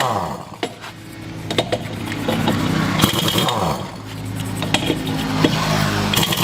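Small farm tractor engine running, its pitch falling near the start, then rising and falling again a couple of times as its speed changes, with a few sharp metallic clicks.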